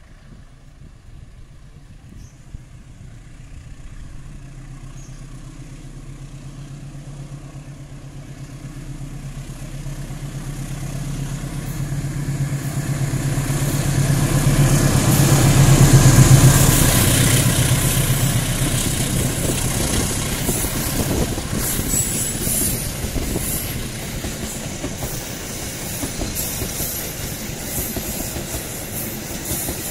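A KAI diesel-electric locomotive approaches and passes close by, its engine hum growing steadily louder to a peak about halfway through. Then its passenger coaches roll past with a steady rumble and rhythmic clicks of the wheels over the rail joints.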